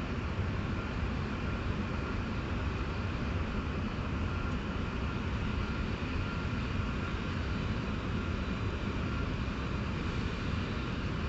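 Electric multiple unit train of Koleje Mazowieckie rolling slowly along a far track: a steady low rumble with a faint thin whine above it.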